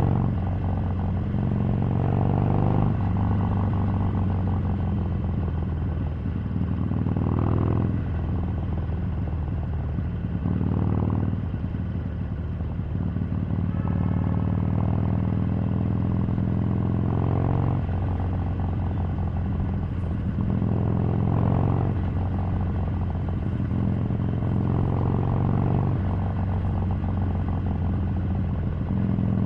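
Harley-Davidson 883's air-cooled V-twin engine running while riding, its note rising and falling several times as the throttle and gears change.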